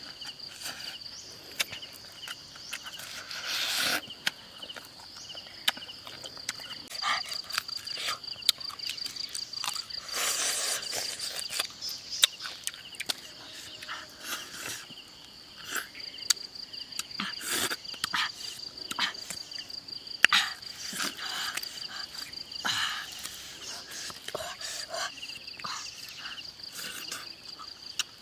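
Close eating sounds: chewing and lip-smacking on grilled fish, as irregular short smacks and clicks. A steady, rapidly pulsing insect chirr runs under them.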